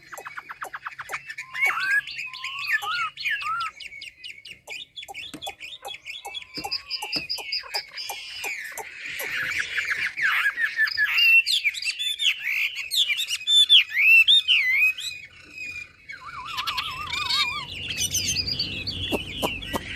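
A 'Mi' songbird singing a long, varied song of whistled glides, rapid trills and chattering notes without a break. A low rumble joins in near the end.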